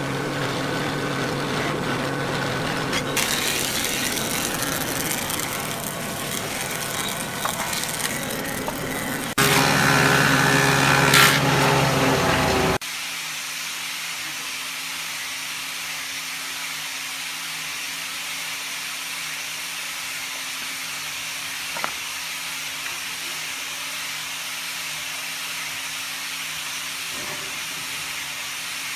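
Electric power tool working wood, with a steady motor hum under rasping, cutting noise that grows louder for a few seconds. After an abrupt cut, a steady motor hum and hiss run on with no cutting.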